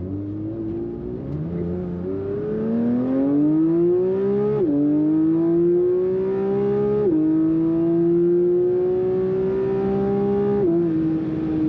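Porsche 992 GT3's naturally aspirated 4.0-litre flat-six accelerating hard, its pitch climbing through the revs. It shifts up about five seconds in and again about seven seconds in, each shift a sudden drop in pitch, with a smaller drop near the end.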